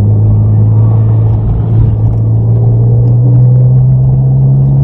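Car engine pulling under power from inside the cabin, its steady drone climbing slowly in pitch as the revs rise.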